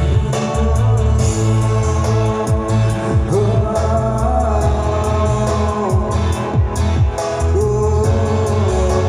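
Amplified pop song with a steady kick-drum beat and a man singing long held, wavering notes.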